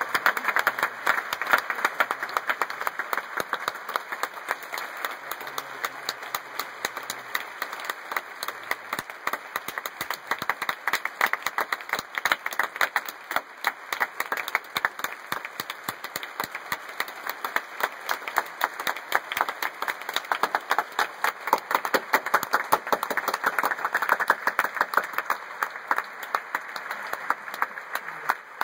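Audience applauding: many people clapping at once, sustained and fairly even, tapering slightly near the end.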